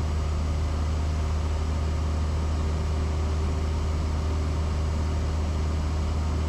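Cessna 172S's four-cylinder Lycoming engine and propeller droning steadily at cruise power, heard from inside the cabin.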